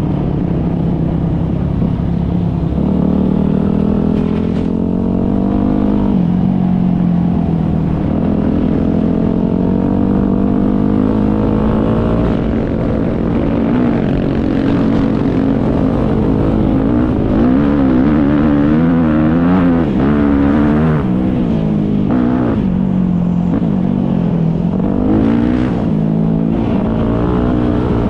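Motocross dirt bike engines racing, revving up and dropping back again and again, with more than one engine heard at once, their pitches rising and falling across each other.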